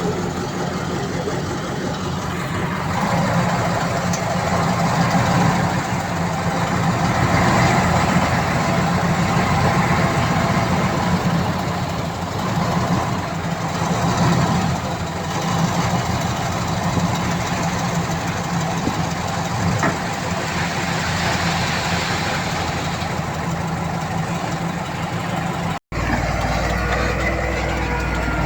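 Heavy diesel engine of an earthmoving machine running steadily under load. The sound cuts out for an instant near the end and resumes with a steadier, lower engine tone.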